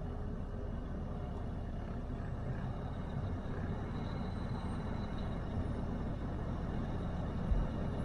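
Ford F-250 Super Duty's 6.7 diesel engine running with a steady low rumble, with one brief low thump near the end.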